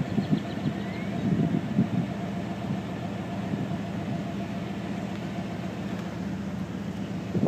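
Steady low hum of a vehicle engine idling.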